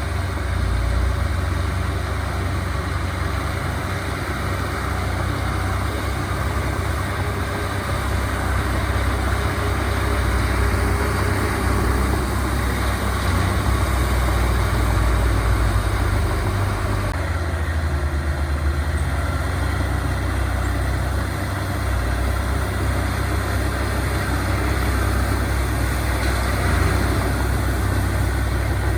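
Diesel engines of heavy earthmoving machinery, bulldozers and dump trucks, running steadily with a deep rumble; the engine note shifts about halfway through.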